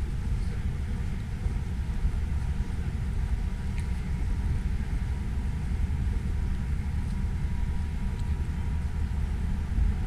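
Steady low rumble of snowstorm wind buffeting the microphone, mixed with city road traffic.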